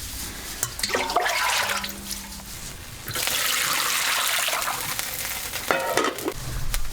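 Water running or being poured, a steady rush that starts suddenly about three seconds in and lasts a couple of seconds, with a few knocks near the end.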